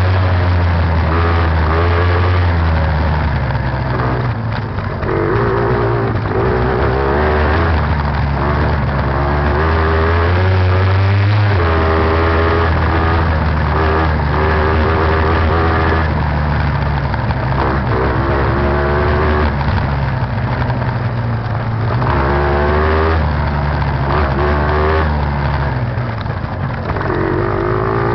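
Beta TR 33 trials motorcycle's two-stroke engine running while being ridden, revving up and easing off over and over as the rider works the throttle.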